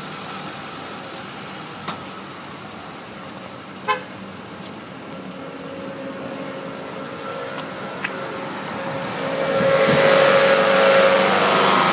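Road traffic with a car coming up close, growing louder near the end, where a steady horn-like tone sounds for a second or two; two sharp clicks earlier on.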